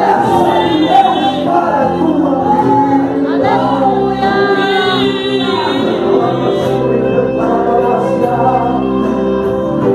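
Live gospel music: sustained chords held under voices singing, an interlude between verses of a congregational worship song.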